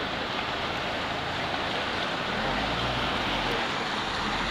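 Steady rushing noise of heavy rain and water on a flooded street, with a low vehicle engine rumble setting in about halfway through.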